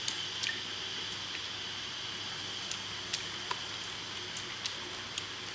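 A steady high-pitched drone of insects, with scattered light clicks of chopsticks and bowls at a meal.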